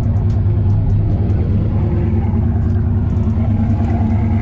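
Truck engine running steadily at idle with a deep, even rumble.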